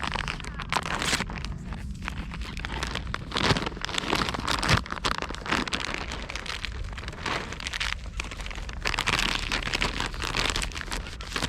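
Continuous crinkling, crackling rustle close to the microphone, with a couple of sharper knocks about three and a half and nearly five seconds in.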